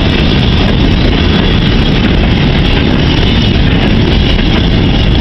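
Steam-hauled goods train's brake van and steel mineral wagons rolling past close by: a loud, steady rumble of wheels on the rails.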